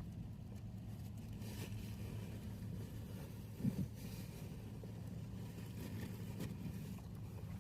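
A steady low mechanical hum, with a short low thud a little past halfway and a few faint knocks.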